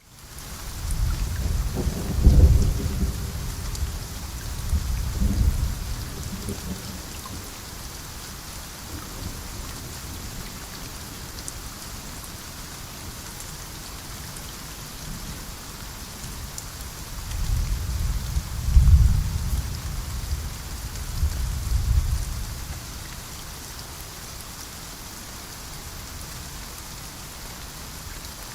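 Steady heavy rain with two long rolls of low thunder, one in the first few seconds and another about two-thirds of the way through.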